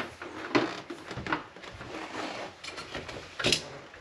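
Handling noises of hand work on the trailer's panels: scattered knocks and clatters with scraping in between. The loudest knock comes about three and a half seconds in.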